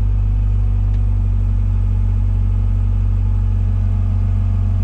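Komatsu PC120-6 excavator's diesel engine running steadily under the operator, a deep, even drone.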